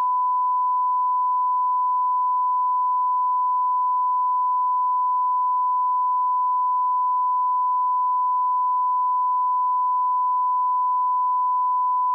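Steady 1 kHz sine-wave line-up test tone at −18 dB reference level: one unbroken, unchanging pitch.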